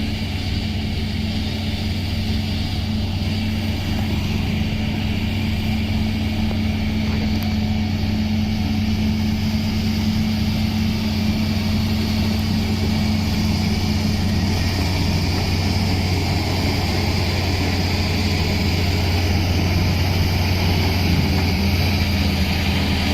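An engine running steadily with an even, low drone, like a vehicle idling.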